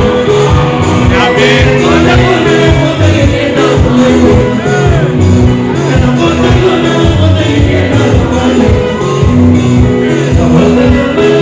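Live band music with a steady beat in the bass and singing over it, played loud through the festival's sound system, whose sound the uploader calls bad.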